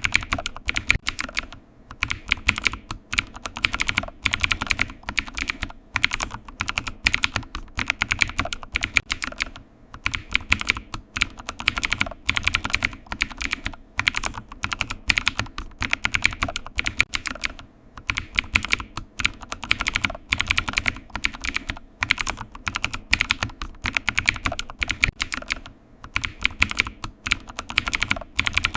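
Continuous typing on a computer keyboard: fast, uneven runs of key clicks broken by short pauses every several seconds.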